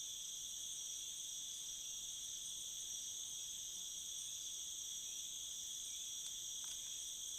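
Steady insect chorus: a continuous, high-pitched shrill that holds without a break.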